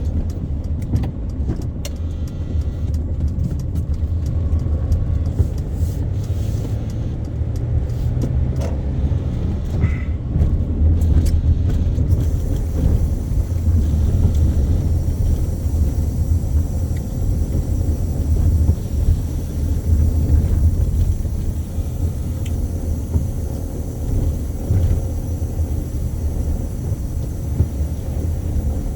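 Car being driven: steady low engine and road rumble, with a few faint clicks in the first half.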